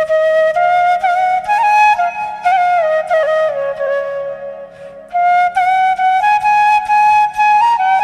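Background music: a solo flute playing a slow, gliding melody over a low steady drone, with a short pause about five seconds in.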